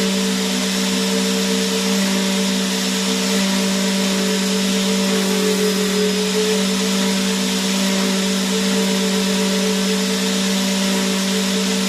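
Vacuum cleaner running steadily: a constant motor hum and whine over an even rushing hiss of air.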